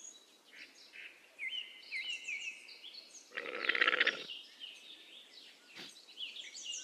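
Small birds chirping, with one short rough rasping animal call a little past halfway.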